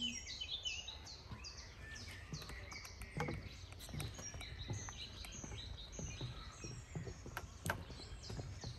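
Small birds chirping and singing, many short, quick downward-sliding notes overlapping one another, with a few soft knocks.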